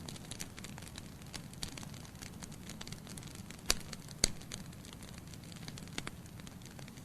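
Wood logs burning in a fireplace, crackling with frequent small snaps over the low steady sound of the flames, and two loud pops about halfway through.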